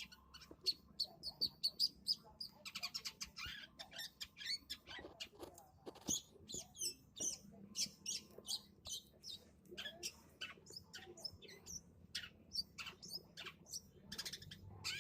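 Long-tailed shrike (cendet) singing a fast, chattering run of sharp chirps and short trills, imitating house-sparrow-like 'nerecet' chatter, the song style used as a lure to set other caged shrikes singing.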